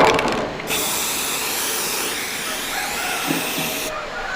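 A steady hiss, starting abruptly under a second in and cutting off near the end.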